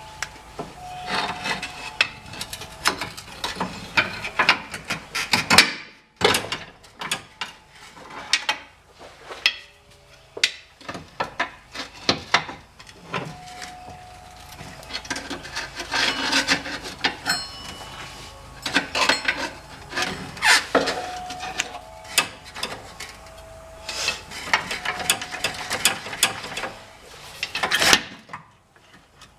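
Hand-tool work on a car: bursts of rapid ratchet-wrench clicking mixed with clanks and knocks of metal tools and parts, stopping and starting several times.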